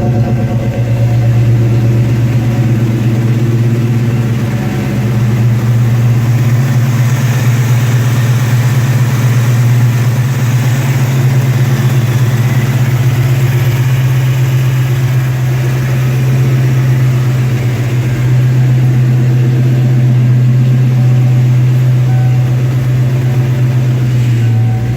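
1988 Saleen Mustang's 5.0-litre V8 idling steadily on a cold start at just over 1,000 rpm, its fast idle because it is not yet warmed up. No ticks or knocks are heard.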